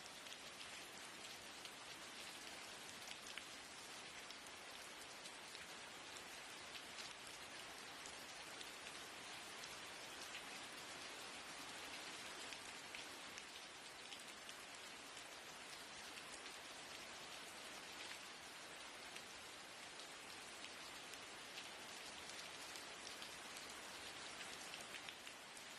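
Steady rain on a window, a soft, even hiss of dense drops with no letup.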